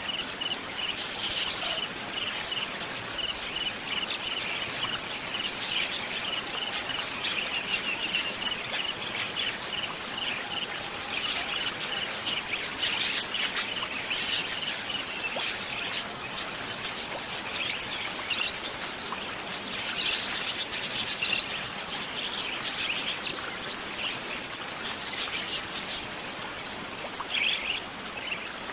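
Small songbirds (warbler and bar-winged prinia) chirping in quick runs of short notes over a steady cricket trill and a hiss of nature ambience; the cricket trill fades out around the middle.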